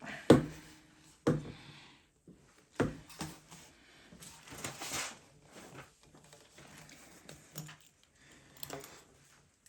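Wooden cabinet parts being handled and fitted: three sharp knocks in the first three seconds, then a brief scraping slide and a few light taps.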